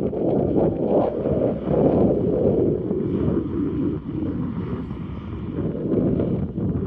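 Gusty wind buffeting the microphone, a rumbling roar that swells and eases every second or so.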